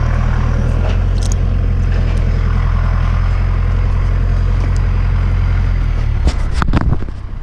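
Tractor engine running steadily at close range, with a few sharp knocks near the end, after which it drops in level.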